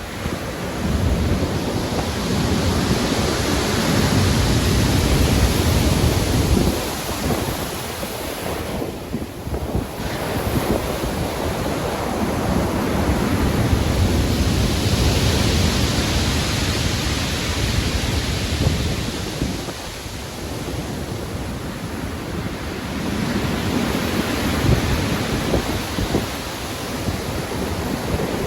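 Heavy ocean surf breaking in a storm: a dense wash of water noise that swells and eases in about three long surges, each with a deep low rumble.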